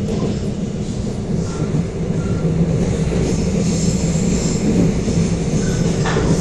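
Korail Mugunghwa-ho passenger train running at speed, heard from inside the carriage: a steady rumble of wheels on rail. A faint high wheel squeal comes in about halfway through.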